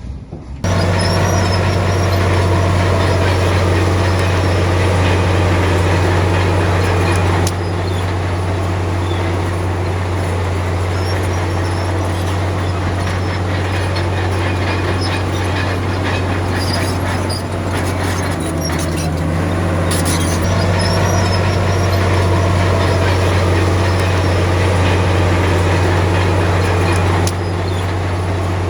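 A heavy diesel engine on earthmoving machinery running steadily with a deep drone, with some metallic clatter near the middle.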